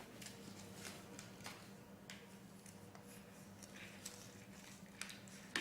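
Faint handling sounds: scattered light taps and rustles as a freshly sublimated phone case and its mold and transfer paper are handled, over a steady low hum.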